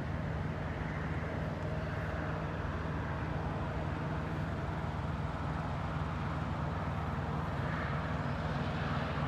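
Steady road-vehicle noise: an even, unbroken low rumble with hiss above it, with no separate events.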